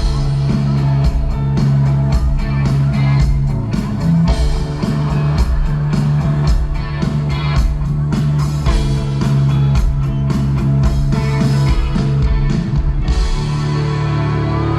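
Live band music with guitar and drums at a steady beat. The drums stop near the end, leaving a held chord ringing.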